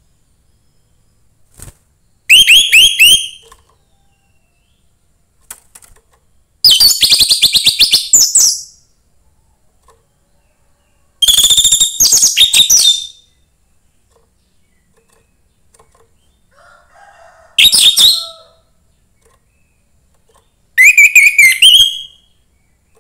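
Young orange-headed thrush singing: five loud phrases of rapid, harsh stuttering notes mixed with whistles, each lasting one to two seconds, with a few seconds of pause between them.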